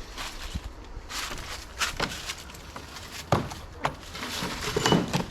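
A locked door being pushed and rattled: scattered knocks and scrapes, with sharper knocks about two, three and a half and four seconds in and a run of scuffs near the end.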